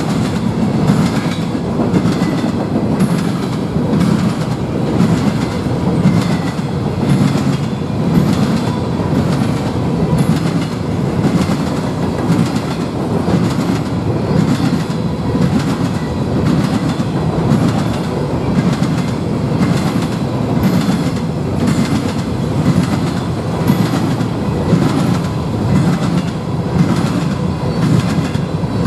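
Norfolk Southern freight train of covered hopper cars rolling past close by: a steady rumble of steel wheels on rail, with a regular clickety-clack as the wheel sets pass.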